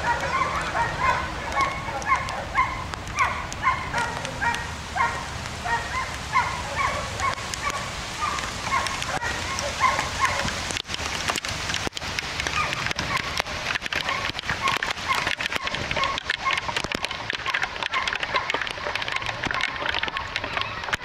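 An animal calling over and over in short pitched calls, about two a second, for roughly the first half, then fading out. Under it is a steady hiss of rain with many sharp drip clicks, which grow denser in the second half.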